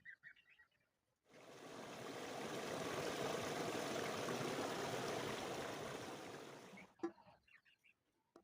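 Water running in a steady rush for about six seconds, swelling in and dying away, with a few faint bird chirps before and after.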